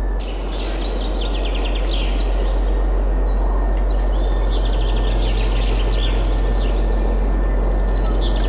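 Several small birds singing, with quick chirps and rapid trills overlapping, over steady wind noise with a deep rumble.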